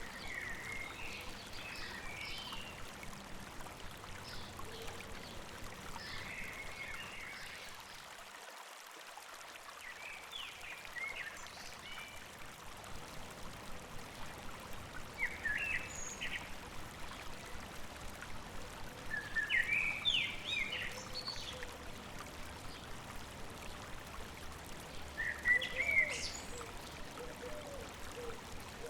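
Steady running water of a river, with small birds chirping and trilling every few seconds, loudest about twenty and twenty-six seconds in. The low rush of the water thins briefly about eight seconds in.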